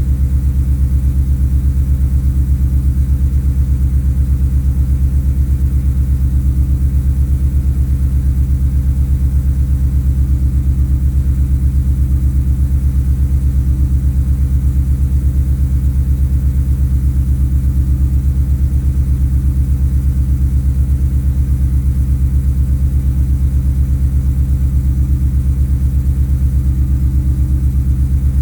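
Ford Coyote 5.0 V8 idling steadily with an even, rapid exhaust pulse, breathing through long-tube headers, a Magnaflow muffler and two 3-inch Vibrant resonators.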